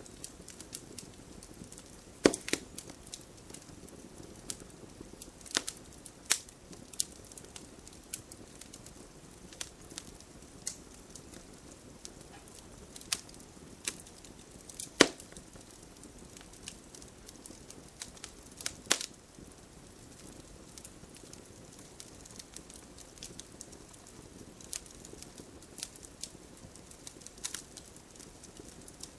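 Wood campfire crackling: irregular sharp pops and snaps over a low steady hiss of burning, with the loudest pops about two seconds in, midway through and a few seconds later.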